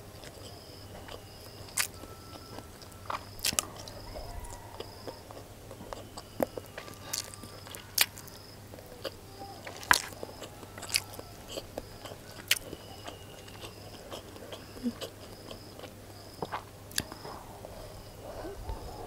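Close-miked mouth sounds of someone chewing fried rice: scattered sharp clicks and smacks, with the occasional tap of a wooden spoon.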